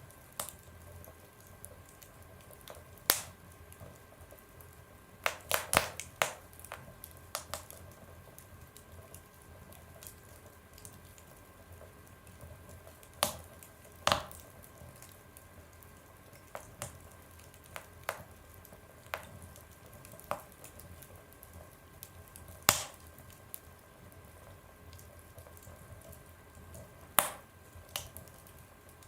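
Wood fire burning in a stove or oven, crackling with sharp, irregular pops, a quick cluster of them about five seconds in, over a faint steady hiss.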